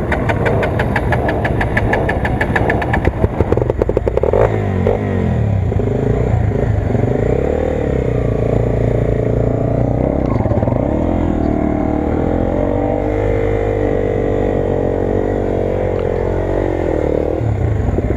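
An engine running, its pitch rising and falling as it revs, with a fast, even rattling tick over the first three seconds or so.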